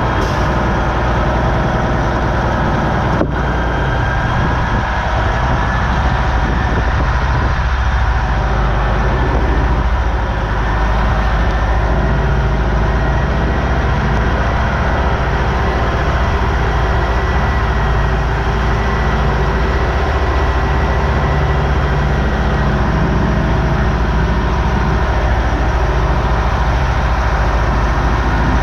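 Freightliner Coronado glider semi truck's diesel engine running steadily, a heavy, even drone with a faint high whine above it.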